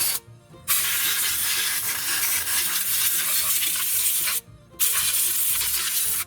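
Compressed air hissing from an air-hose blow nozzle in long blasts, cut off sharply twice for about half a second, blowing mouse-nest debris and grass out of a small engine's cooling shroud.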